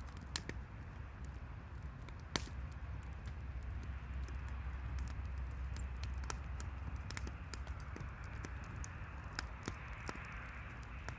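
Wood fire crackling, with irregular sharp pops and snaps of burning wood over a low steady rumble.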